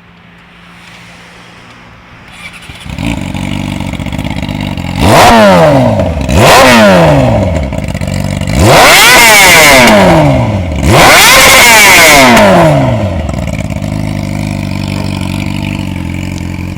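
2006 Yamaha R6's inline-four with a Toce aftermarket exhaust starting up about three seconds in and settling to idle, then revved four times: two quick blips, then two longer held revs, each dropping back to idle.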